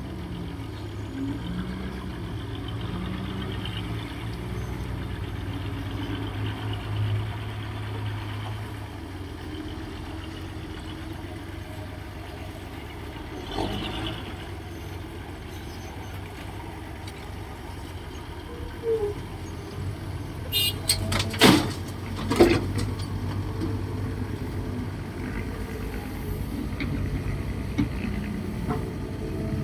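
Diesel engines of a Kobelco SK135SR excavator and a six-wheel dump truck running with a steady low drone, with a cluster of sharp knocks about 21 to 22 seconds in.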